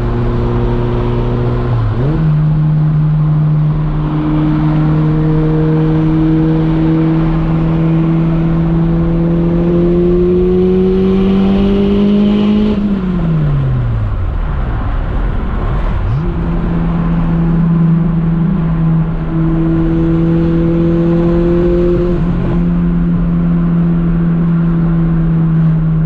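Turbocharged Honda Prelude's four-cylinder engine pulling hard at high revs, its pitch climbing slowly for about ten seconds, then dropping sharply as the throttle is lifted. It comes back up a few seconds later and pulls again at a steady high pitch.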